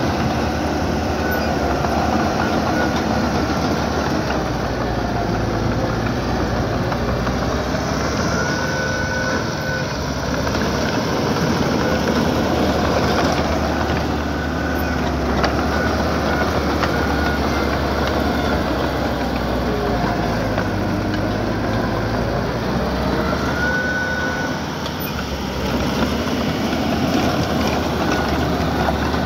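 Diesel engine of small earthmoving equipment running steadily, with a few short high squeals now and then.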